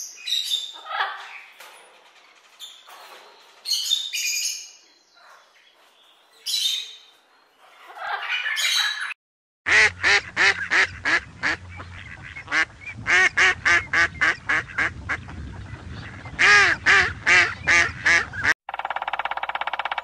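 A parrot giving a run of harsh squawks, then, after a brief gap, a Canada goose honking in an even series of about three honks a second for some nine seconds. A short buzzy sound comes near the end.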